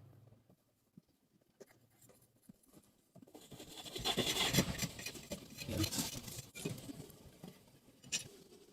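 Dry rustling and scratching of something being handled, starting about three seconds in and dying away near the end, with one short sharp click just before the end.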